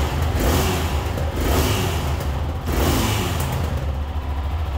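Yamaha XT660's single-cylinder four-stroke engine running, swelling a few times with short revs.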